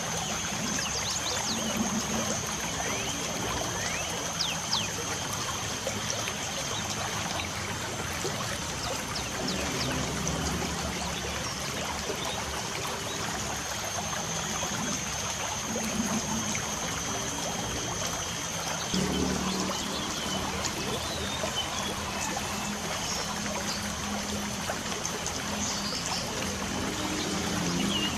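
Light rain falling steadily, a continuous trickling patter, with short bird chirps scattered throughout.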